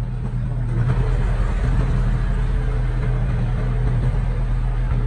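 Diesel engine of heavy earthmoving equipment running steadily with a low hum, getting a little louder about a second in.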